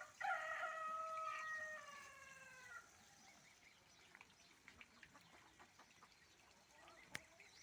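Rooster crowing once: one long call of about two and a half seconds whose pitch sinks toward the end. A single sharp click comes near the end.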